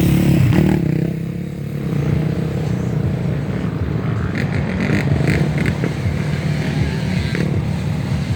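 Dirt bike engine running, loudest in the first second and then settling to a steadier note, with a few short clattering knocks midway.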